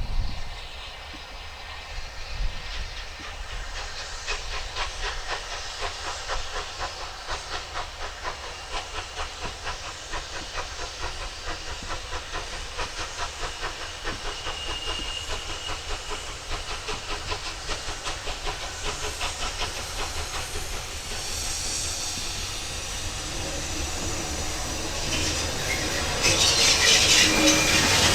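Steam locomotive working, its exhaust beating evenly at about two to three chuffs a second over steam hiss. Near the end a much louder rush of steam and train noise builds up.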